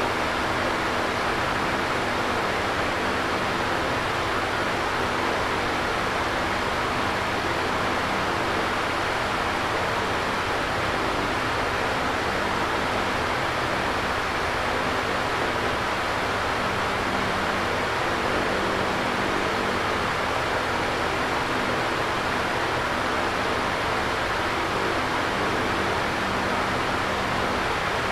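Electric fan running steadily: an even whooshing rush of moving air with a faint low motor hum underneath.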